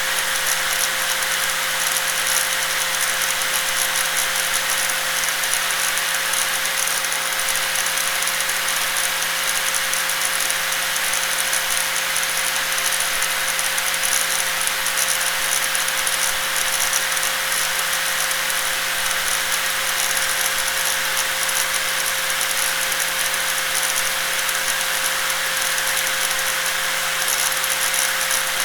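Electric angle grinder running continuously at a constant speed: a steady, unchanging high whir with a constant tone and a low hum underneath.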